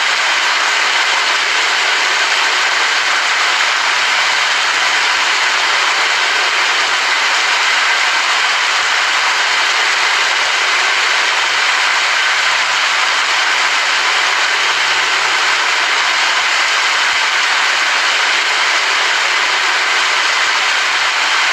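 Steady rain falling: a dense, even hiss that holds level throughout.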